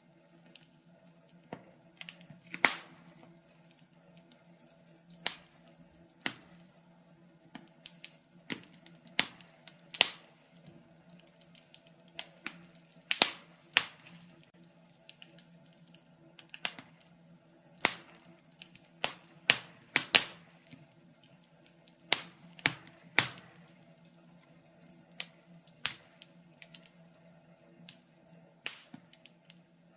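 Wood fire crackling in a fireplace: irregular sharp pops and snaps, one to three a second, over a faint steady hum.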